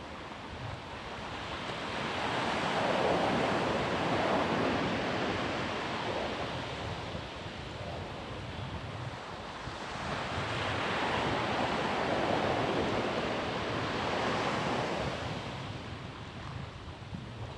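Ocean waves breaking and washing up a beach: two slow swells of surf, the first peaking about three seconds in and the second building from about ten seconds, each easing off as the water runs back.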